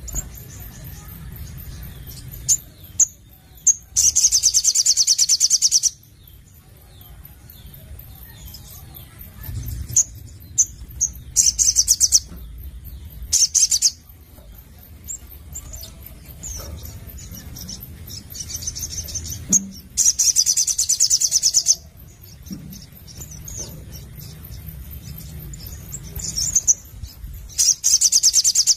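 A sogon (little spiderhunter) calling: scattered sharp high chirps, broken five times by loud, high, fast-pulsed trilled bursts lasting up to about two seconds.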